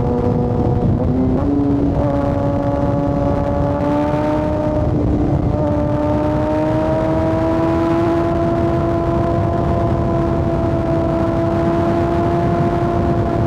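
Kawasaki ZX-6R inline-four engine running at high revs under load, its note stepping up about a second in and then climbing slowly and steadily as the bike pulls in one gear, over a steady rushing noise.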